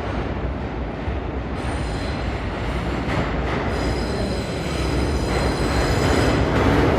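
R46 subway train passing through a station: steel wheels rumbling on the rails, with a high-pitched wheel squeal that comes in about a second and a half in and holds from about four seconds on, the noise building toward the end.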